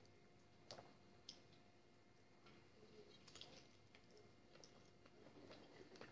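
Near silence with a few faint, scattered clicks and smacks of a person biting into and chewing a fried chicken drumstick.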